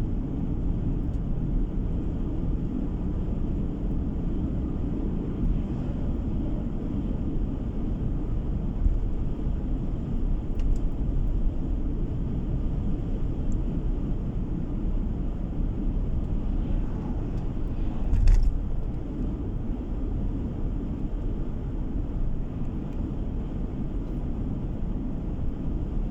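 Car driving along a road, heard from inside the cabin: a steady low rumble of tyres and engine. A single thump about two-thirds of the way through, as from a bump in the road.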